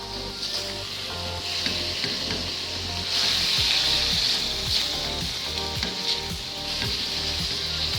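Food sizzling as it fries in hot oil, growing louder about three seconds in, with a few light clicks.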